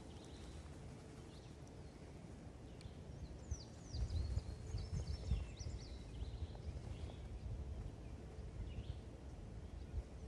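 Quiet lakeside ambience with small birds chirping in short, quickly rising and falling calls for a few seconds in the middle, over an irregular low rumble that grows louder about four seconds in.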